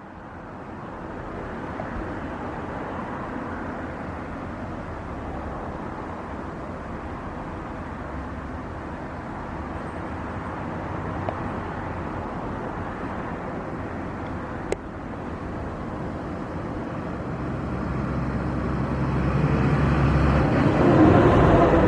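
Jet airliner engines running, a steady rumble and rush that builds slowly and is loudest near the end as the aircraft draws closer. A single sharp click about two-thirds of the way through.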